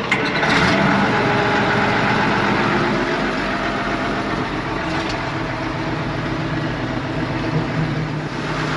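Dump truck's Caterpillar diesel engine running steadily from inside the cab, swelling up just as it begins.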